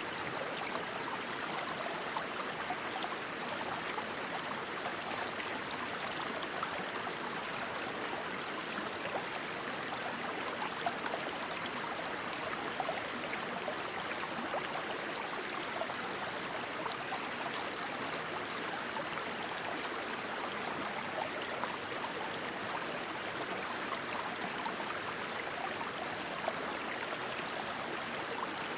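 Rushing water running steadily, with short high-pitched chirps repeating about once or twice a second over it and two brief trills, around six seconds in and around twenty seconds in.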